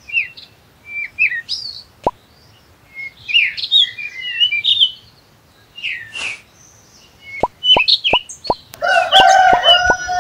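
Small birds chirping and twittering in quick, gliding calls, with short plopping sounds: one about two seconds in, then a quick run of them from about seven seconds on. Near the end a rooster crows in one long held call.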